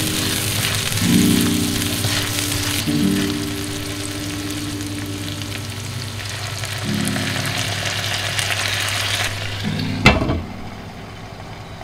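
Okra stir-frying in hot oil in a pan: a steady sizzle with a spatula stirring. About ten seconds in, a lid is set on the pan with a sharp clank, and the sizzle drops to a quieter, muffled hiss.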